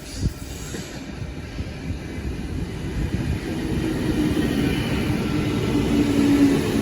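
A train approaching the platform, its rumble growing steadily louder, with a low steady hum of two tones joining in about halfway through.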